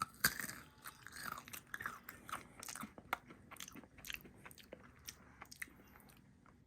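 Someone crunching and chewing Takis Fuego Hot Nuts, spicy coated peanuts, close to the microphone: a run of irregular crunches that thins out near the end.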